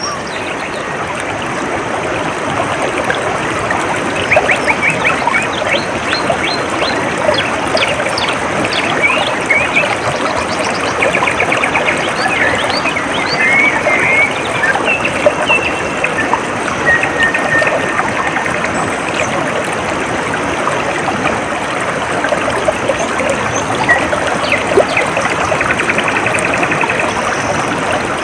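Water trickling and gurgling in a steady stream, with small birds chirping and giving short trills over it throughout.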